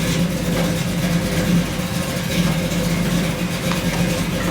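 Steady machine hum with an even hiss over it, from the equipment and spray of a self-service car wash bay.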